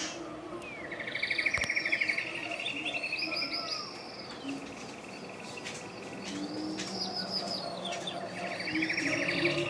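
A forest songbird repeating the same song phrase several times, a few seconds apart; each phrase is a rapid trill followed by higher gliding notes.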